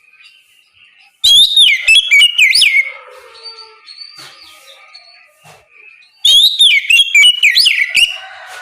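Oriental magpie-robin (kacer) singing in the clear, open 'ngeplong' style: two loud phrases of fast whistled glides and sharp notes, each about two seconds long, the first about a second in and the second about six seconds in, with quieter chirping between.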